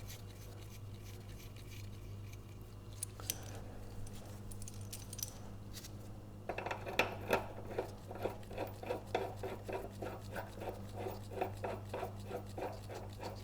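Light metallic clicks and clinks of a small three-jaw gear puller being handled and fitted onto a seized lawn mower blade adapter. It starts with a few scattered clicks, then about halfway through comes a run of quick, regular clicks, roughly three a second.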